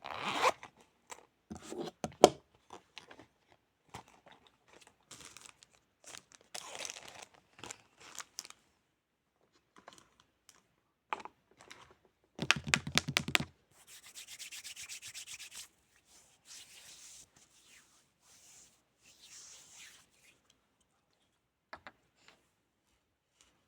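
Close-miked ASMR handling sounds: scattered rubbing, scraping and rustling of hands and small objects. About halfway through comes a quick run of rapid clicks, then a steady scratchy hiss lasting about two seconds.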